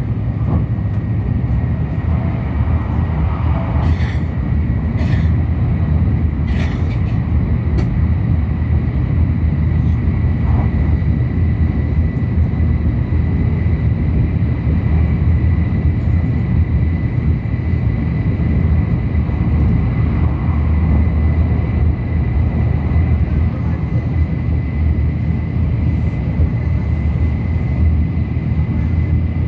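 Sanyo Shinkansen train running at speed, heard from inside the car: a steady loud rumble with a constant thin high tone over it, and a few light clicks about four to seven seconds in.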